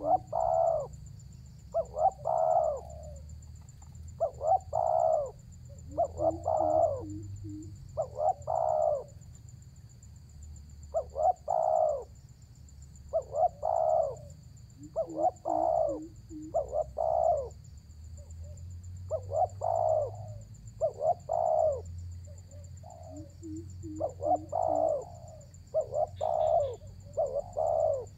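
Spotted dove (tekukur) cooing over and over: phrases of a few coos, one every second or two, now and then led by a quick run of short low notes. This is the vigorous calling of a bird challenging a rival, used to lure wild doves.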